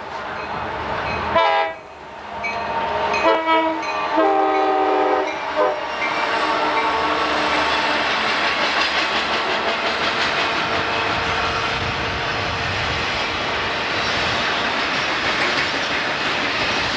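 Diesel freight locomotive's multi-note air horn sounding several blasts over the first six seconds, the last one the longest, then the steady rolling noise of the loaded coal train passing.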